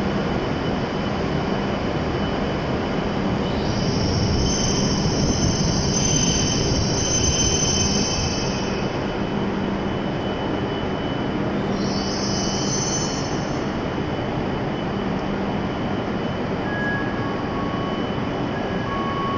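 E7 series Shinkansen train rolling slowly into the platform and braking to a stop, a steady rumble with two spells of high-pitched squeal, the first about four seconds in lasting some five seconds, the second briefer about twelve seconds in.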